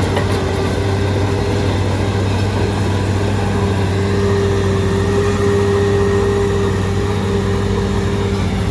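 Shantui DH17C3 bulldozer's diesel engine running steadily under work, a deep hum with a steady whine over it that grows stronger about halfway through.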